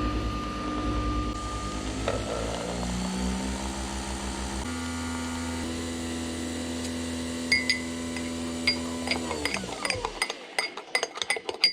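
A small electric motor hums steadily, changes pitch about halfway, then winds down and stops near the end. Sharp clinks like dishes being handled follow in the last couple of seconds.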